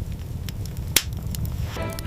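Wood fire crackling in an iron stove, with scattered sharp pops, the loudest about a second in, over a steady low rumble. Soft violin music comes in near the end.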